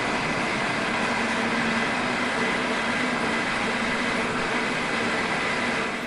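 G&E metal shaper running steadily, its ram stroking the cutting tool back and forth across an aluminum bar on a light finishing pass of about four to five thousandths.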